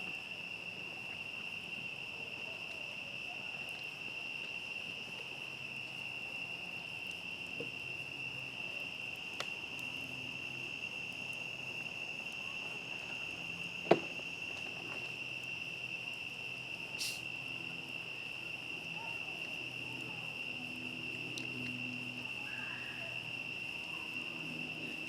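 Crickets trilling steadily at one high pitch, with a few sharp crackles from a campfire, the loudest just past the middle.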